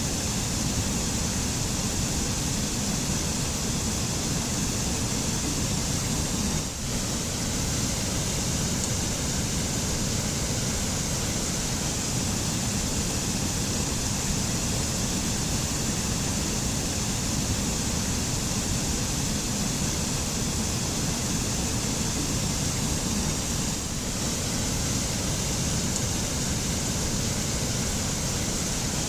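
Waterfall: a steady, even rush of falling water, with a brief dip in level about seven seconds in.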